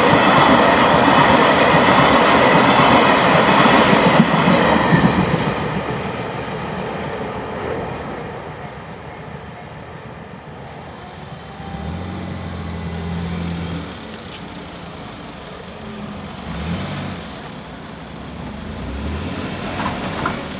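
A train running over the level crossing, its loud rumble dying away over the first five seconds or so. After that, road vehicles with engines humming cross one after another, at a lower level.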